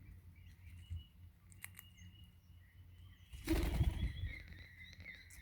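Crimson rosella's wings flapping in a short burst about three and a half seconds in as it takes off, after a few light clicks. Faint bird calls run underneath.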